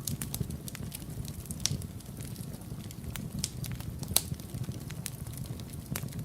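Wood fire burning in a fireplace: a steady low rumble of flame with frequent irregular crackles and pops, a sharper pop about four seconds in.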